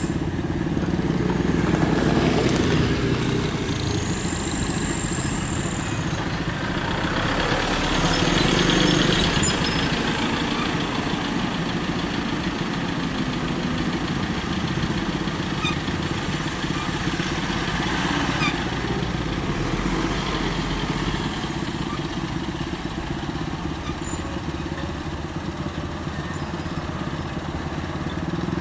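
Road traffic with heavy trucks' engines running as they pass, a steady drone that swells twice, about two seconds in and again around eight or nine seconds in, as vehicles go by.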